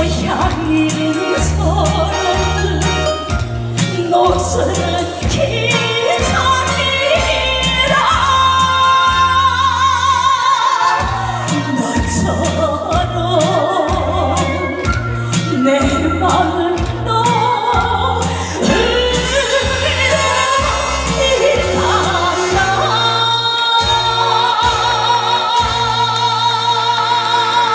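A woman singing a Korean trot song with heavy vibrato over a recorded backing track with a steady, pulsing bass beat; near the end she holds long, wavering notes.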